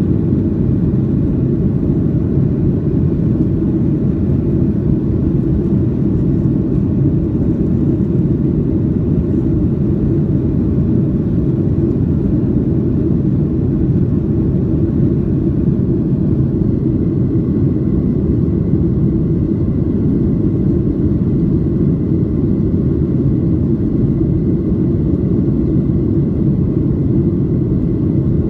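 Boeing 737-800's CFM56 jet engines and airflow heard inside the passenger cabin as a steady, deep rumble, with a faint steady whine joining about two-thirds of the way in.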